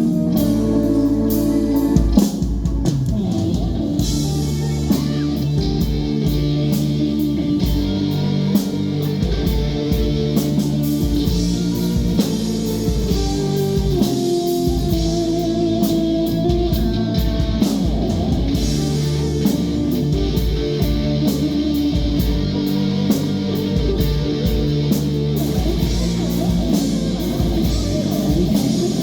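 Live rock band playing an instrumental passage: an electric guitar line over bass and a drum kit keeping a steady beat, with no vocals.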